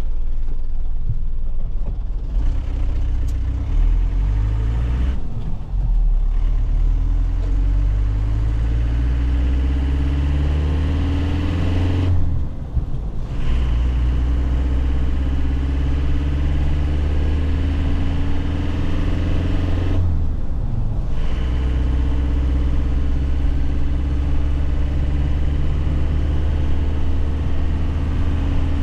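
2001 Nissan Cabstar light truck's diesel engine pulling through the gears of its manual gearbox. The revs climb, then drop briefly at three upshifts about five, twelve and twenty seconds in, and the engine runs at a steady pitch near the end.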